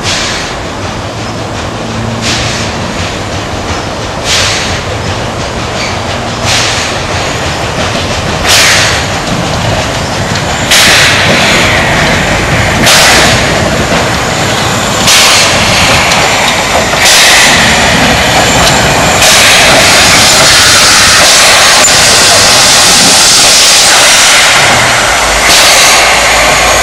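A train drawing closer and getting steadily louder, with a regular noisy beat about every two seconds, then a continuous loud rush from about two-thirds of the way in.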